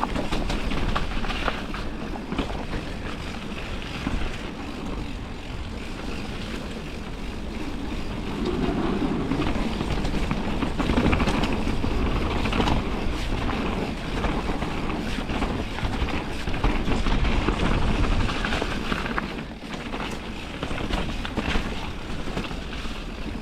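Radon Swoop mountain bike riding downhill over a rough, rain-soaked trail: steady wind rush on the microphone with constant rattling and knocking from the bike over the ground.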